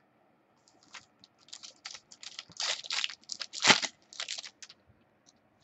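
Trading cards being handled and slid against one another: an irregular run of short rustling, scraping clicks for a few seconds.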